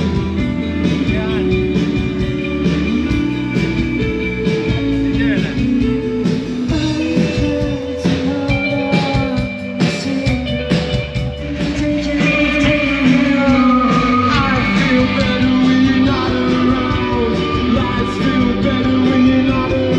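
Rock music with a singer and guitars, the voice holding long notes over the band.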